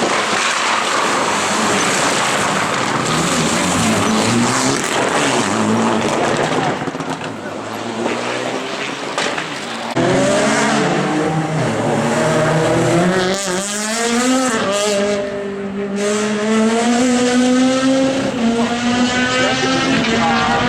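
Rally cars driven hard, engines revving high with tyres squealing and skidding. About halfway through the sound changes abruptly to another car whose engine climbs in pitch, drops at each gear change and climbs again.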